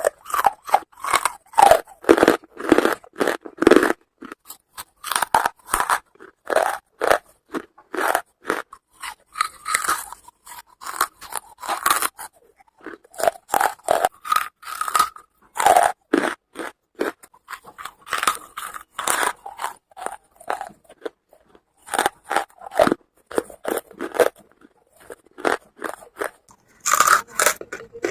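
Charcoal being bitten and chewed up close, in runs of crisp, crackly crunches broken by short pauses.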